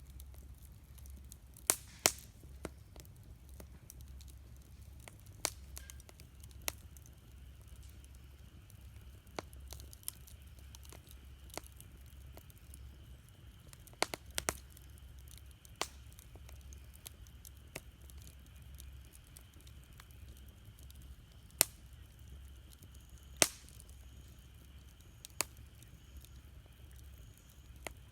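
Wood campfire crackling, with scattered sharp pops and snaps, the loudest about two seconds in and again near 14, 21 and 23 seconds, over a low steady rumble.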